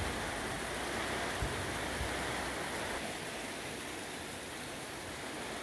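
Heavy rain falling steadily, an even hiss, with a low rumble underneath that drops away about halfway through.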